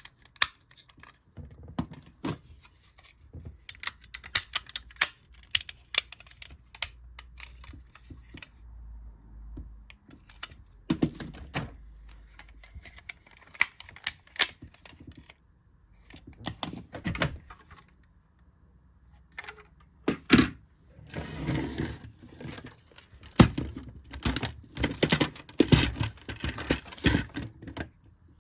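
Hard plastic cube-robot toy parts being handled and snapped together: irregular clicks and knocks of plastic on plastic, with a couple of short pauses.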